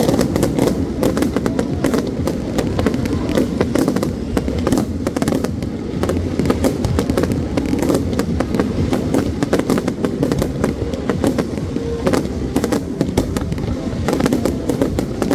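New Year fireworks display: many sharp bangs and crackles in quick, irregular succession over a steady background din.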